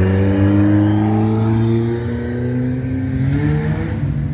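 A car engine accelerating as it drives past, its note rising slowly and steadily. A thin high whine climbs sharply near the end as the engine note falls away.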